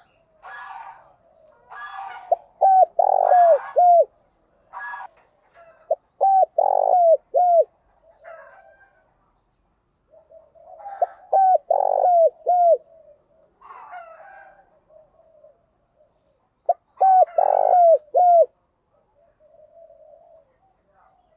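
Spotted dove cooing: four phrases of short, clipped coos, each note dropping in pitch at its end, the phrases a few seconds apart, with softer, rougher calls between them.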